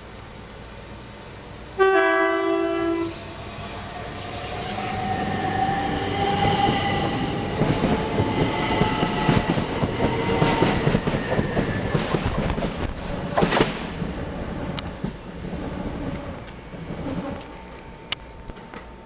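A train sounds a two-note horn for about a second, then runs through the station with a rising electric motor whine and wheels clattering on the rails, fading out near the end.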